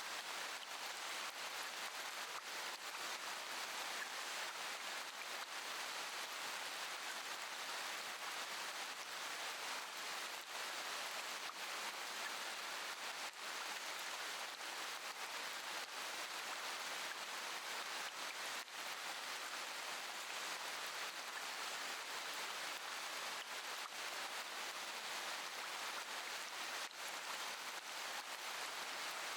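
Steady rain falling: an even, unchanging hiss of rain.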